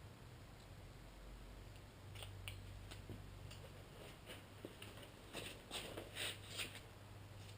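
Faint scattered clicks and scrapes, thickest about five to seven seconds in, over a low steady hum.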